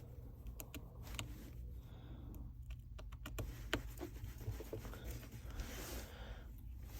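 Small, sharp clicks and taps at irregular intervals from small phone parts and tools being handled and fitted during a smartphone's reassembly, over a steady low hum.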